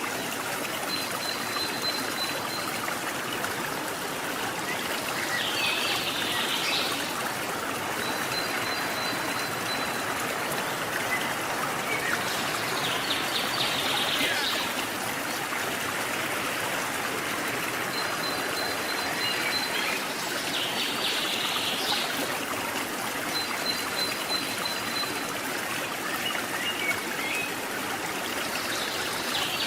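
Forest stream running steadily. A high buzzing call, like an insect's, comes back about every seven seconds.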